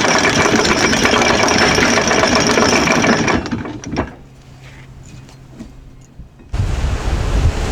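Anchor chain running out fast in a continuous loud rattle as the yacht's anchor is dropped. It stops about three and a half seconds in, leaving a low steady hum, and wind and waves take over near the end.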